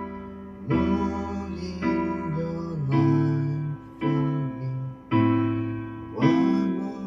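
Instrumental keyboard music: slow, sustained chords, a new chord struck about once a second and left to ring.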